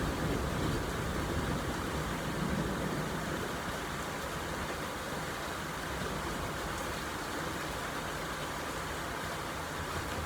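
Steady rain falling, an even hiss. A low rumble of distant thunder fades away over the first few seconds.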